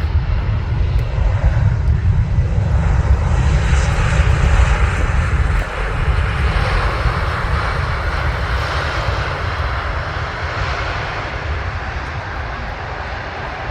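Airbus A320-family jet airliner passing low on its landing approach: the loud engine rumble swells, peaks about four to five seconds in, then slowly fades.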